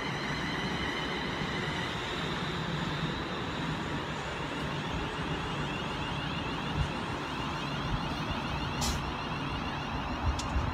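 Class 350 electric multiple unit standing at the platform, its equipment giving a steady hum over general station noise, with two faint clicks near the end.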